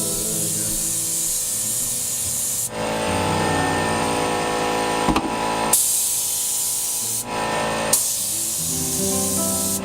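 Spray paint hissing in long bursts, cutting out for about three seconds a little under three seconds in and again briefly near the end, over music with sustained notes.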